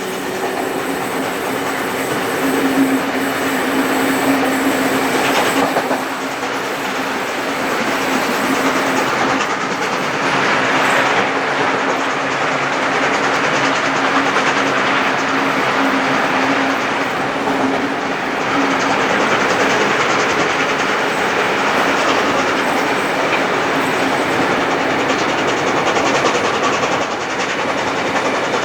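A train running along the track behind steam locomotive 3801: a steady loud rumble of wheels on rail with a rhythmic clickety-clack. A steady low hum sits under it for most of the first two-thirds, then fades.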